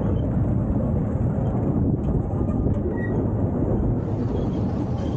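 Steady low rumble of a small steam-hauled train's open passenger carriages running along the track, heard from on board.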